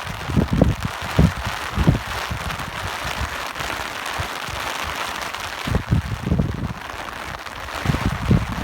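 Steady rain hiss with wind gusting in low, uneven surges, heavier near the start and again near the end.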